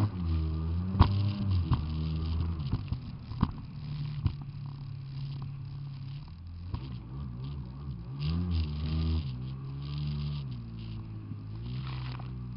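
Jet ski engine running, its pitch rising and falling repeatedly as the throttle changes, with several sharp knocks in the first few seconds.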